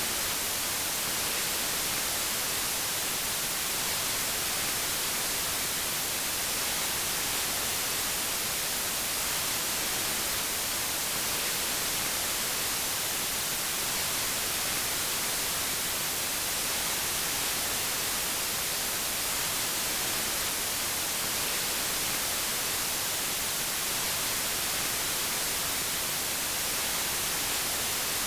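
Steady synthetic white noise: an even, unchanging hiss with its energy weighted toward the high end.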